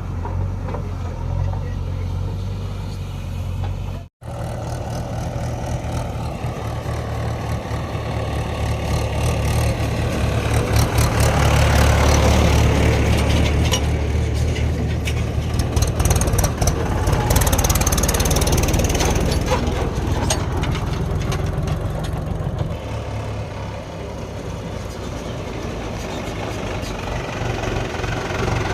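Heavy diesel engine of a JCB 3DX backhoe loader running and working under load, rising in level through the middle with repeated clanks and clatter, then settling back. A brief break in the sound about four seconds in.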